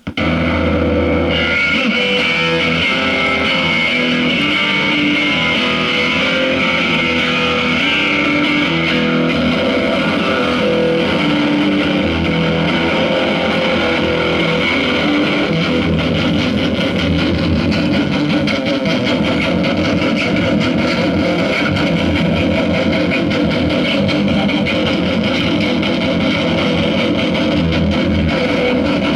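Loud, distorted electric guitar noise music played through effects pedals: a dense, unbroken wall of sound over a sustained low drone. It starts abruptly and keeps going without a break.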